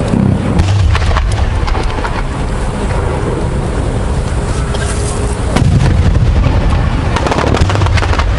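Aerial fireworks bursting: repeated deep booms that rumble on between bursts, with a quick run of crackles near the end.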